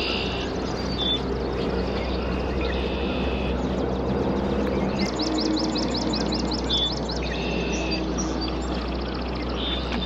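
Songbirds singing: short songs repeated every few seconds, each a brief clear note followed by a buzzy ending, with a rapid trill of about nine notes a second about five seconds in. A steady low rumble runs underneath.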